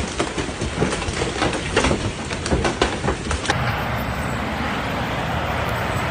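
Outdoor road noise from snowstorm footage: a run of knocks and clatters over a rushing background, then, after a cut about three and a half seconds in, a steady rushing noise.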